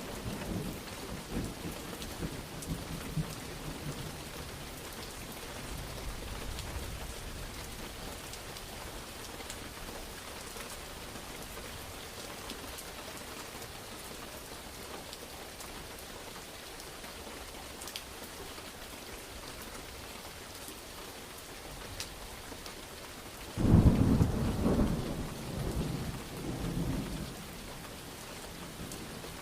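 Steady heavy rain falling, with thunder: a rumble fading away in the first seconds, then a sudden loud thunderclap about three-quarters of the way through that rolls on for a few seconds before the rain alone continues.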